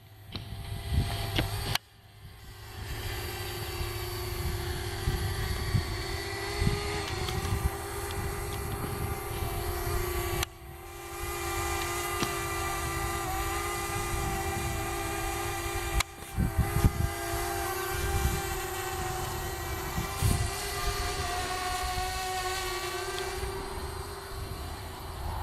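Parrot Bebop quadcopter's propellers whining in flight, a steady buzzing hum with higher tones that waver slightly in pitch. The sound builds up over a couple of seconds after a break near the start, then holds steady, broken by abrupt cuts about ten and sixteen seconds in.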